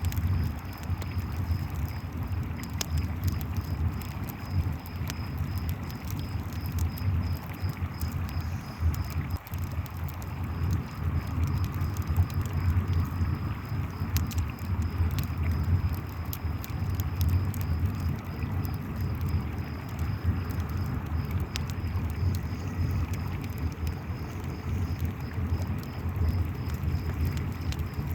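Campfire crackling with scattered sharp pops, over the steady rush of a flowing river, with crickets chirping in an even high pulse. The three layers run together without a break.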